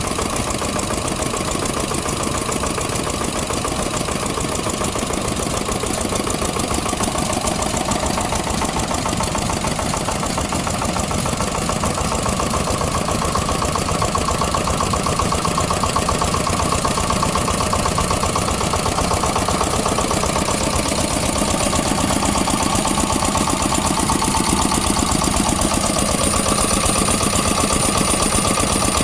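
Vintage engine running steadily, with an even, unbroken firing rhythm that grows slightly louder over the stretch.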